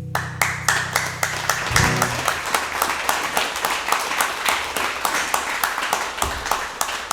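Small audience applauding, many hands clapping irregularly, while the last strummed acoustic guitar chord rings out and dies away over the first couple of seconds. The clapping thins out near the end.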